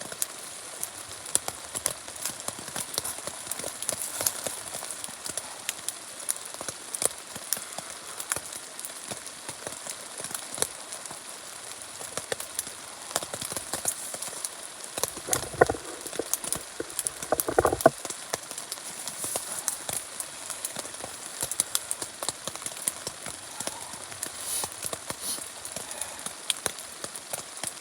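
Rain drops pattering unevenly on the fabric of a teepee shelter, sharp scattered ticks over a steady hiss. Two louder knocks come a little past halfway.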